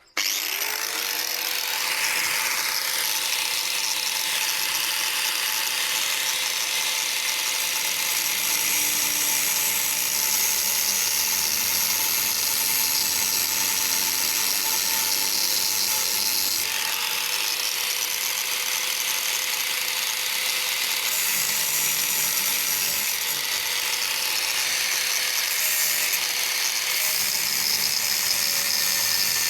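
Angle grinder spinning up and grinding through a rusted, jammed steel padlock: a loud, steady grinding hiss over the motor's whine. A little over halfway through, the motor tone winds up again.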